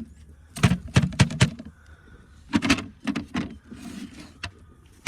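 Wooden beehive parts, a shim and an inner cover, knocking and clattering as they are handled and set down: a run of sharp clacks with duller hollow thuds between them.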